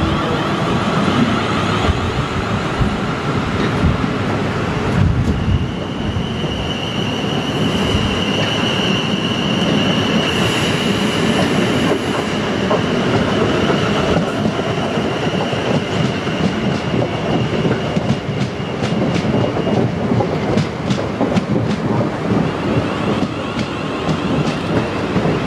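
South Western Railway electric multiple-unit trains running past on curved track: a steady rumble of wheels on rail, a high steady whine through the middle, and quick clicks of wheels over rail joints in the later part.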